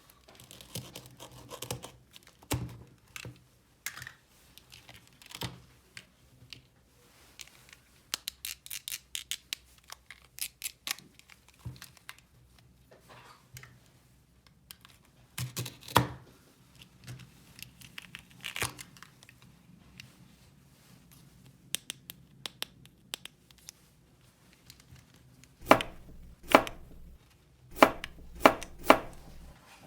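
Hands handling small plastic toy-kitchen pieces and their packaging: scattered clicks and taps with tearing and crinkling. There is a quick run of light clicks about eight seconds in, and a cluster of sharper knocks near the end.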